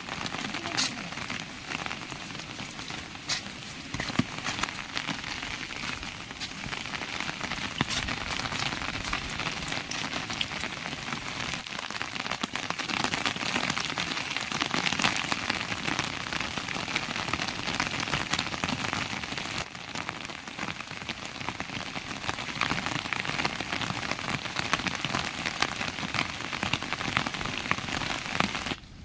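Heavy rain falling steadily on surfaces, a dense hiss with many separate drop hits, cutting off abruptly just before the end.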